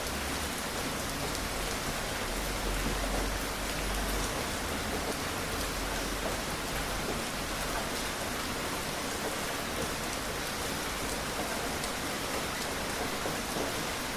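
Steady rain falling, with scattered drops pattering on a surface and a faint low rumble underneath.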